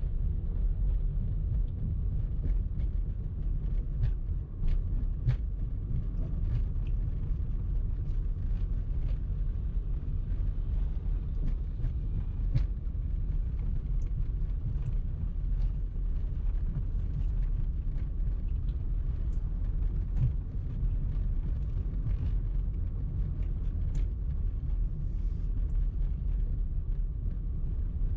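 Car driving in traffic: a steady low rumble of engine and road noise, with scattered faint clicks and ticks.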